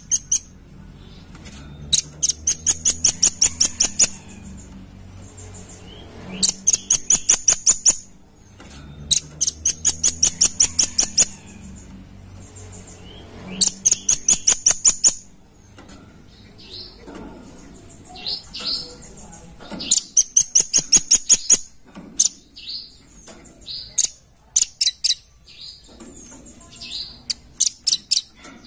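Velvet-fronted nuthatch calling: bursts of rapid, sharp, high notes, each about two seconds long at roughly five notes a second, repeated several times. Between the bursts, and through the latter part, come scattered single sharp call notes.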